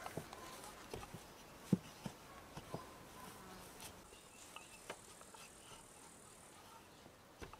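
A few light clicks and taps, the loudest about two seconds in, with a faint, thin, high-pitched insect buzz in the second half.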